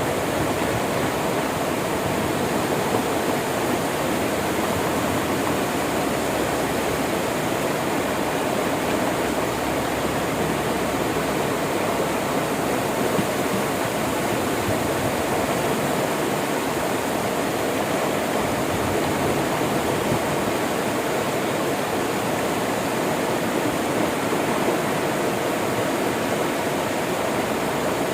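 Steady rushing of flowing river water, an even wash of noise with no breaks or distinct splashes.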